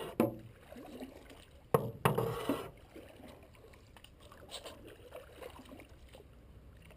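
Boat paddles dipping and pulling through creek water: two splashy strokes, one near the start and one about two seconds in, then only faint water sounds.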